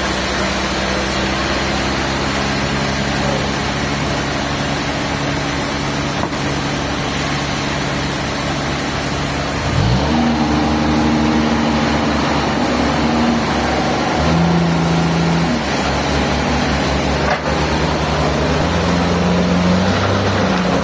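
An engine running steadily. About halfway through, its revs rise sharply, then shift up and down in steps a few more times, as a working machine does under changing load.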